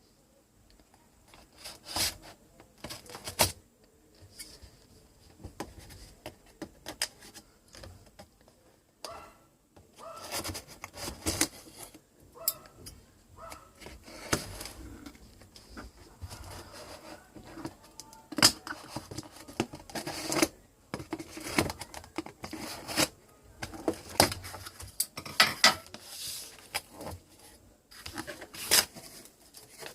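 Irregular clicks, knocks and rubbing of objects being handled by hand, in uneven runs with short pauses and a quiet first second or so.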